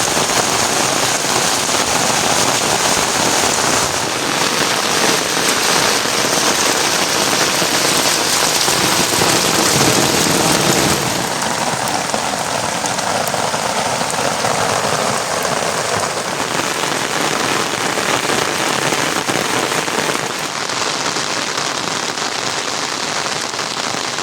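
Heavy rain falling steadily: a dense, even hiss of drops on surfaces, changing slightly in tone a few times along the way.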